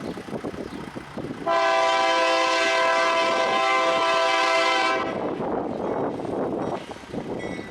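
Diesel freight locomotive's air horn sounding one long steady blast of several tones together, lasting about three and a half seconds, with the rumble of the running train before and after it.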